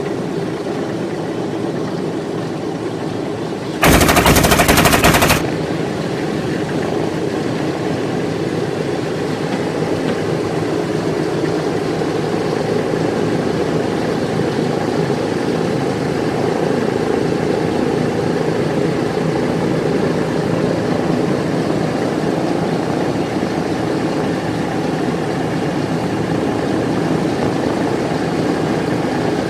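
Piston aircraft engine running steadily, broken about four seconds in by a very loud burst of machine-gun fire lasting about a second and a half.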